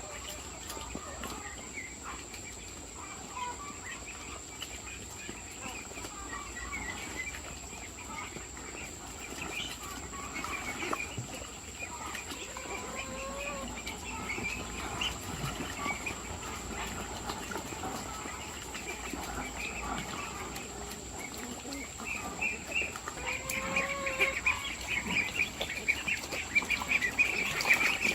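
Farm poultry calling: many short, high peeps, growing busier over the last few seconds, with a few lower calls here and there.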